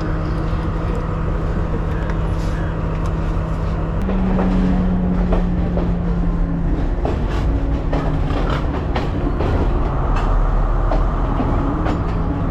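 Diesel passenger train running, heard from inside a carriage: a steady engine drone that steps up in pitch about four seconds in and settles back a few seconds later. From about four seconds in there are irregular clacks of the wheels over rail joints.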